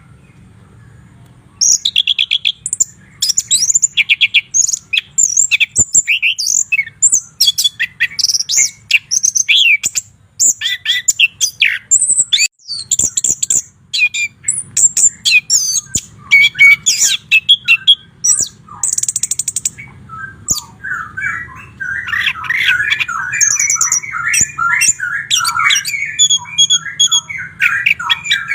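White-rumped shama singing: a fast, continuous run of varied whistles, trills and sharp notes that starts a second or two in, changing near the end to a denser, lower chattering.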